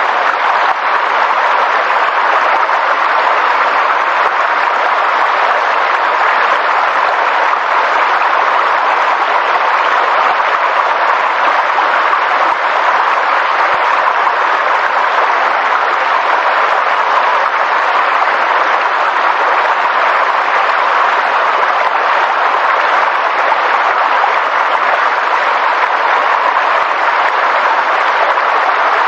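Steady, unbroken rushing noise of a nature-sound recording, even in level throughout, like dense rain or rushing water.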